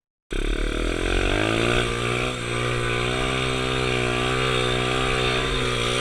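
Pit bike engine running at high revs, its pitch climbing over the first second or two, holding steady, then dropping off near the end.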